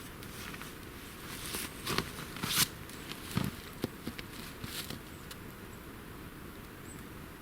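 Thin dry twigs being handled and snapped while laying a campfire: a few scattered rustles and sharp cracks, the loudest about two and a half seconds in.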